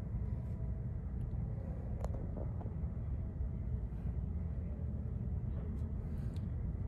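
Freight train of tank cars rolling past at a distance: a steady low rumble, with a few faint clicks, about two seconds in and again near the end.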